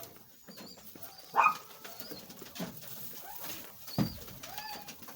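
Birds calling, a mix of short high chirps and low coos scattered throughout, with one louder brief call about a second and a half in and a single knock about four seconds in.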